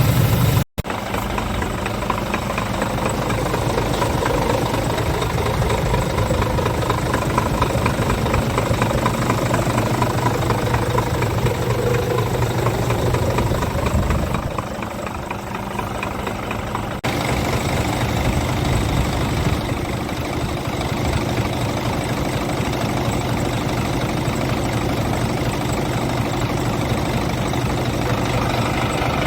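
Scania R450 truck's 13-litre six-cylinder diesel idling steadily, broken by a brief cut about a second in and a quieter stretch around halfway.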